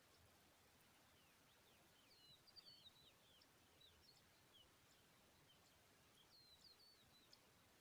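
Faint high bird chirps: short notes that slide downward, coming in two quick runs about two and a half and six and a half seconds in, with a few single chirps between, over a faint hiss.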